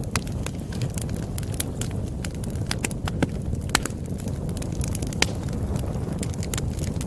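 Wood fire crackling: a steady low rumble of burning with frequent irregular sharp pops and snaps, a few louder ones standing out.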